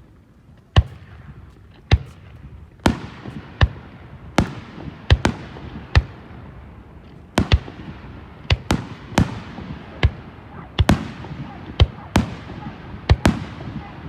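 Starmine fireworks barrage: about twenty sharp aerial shell bursts, roughly one or two a second and some in quick pairs, with crackling and rumbling between the bangs. The display mixes in time-delay shells that burst in a staggered sequence.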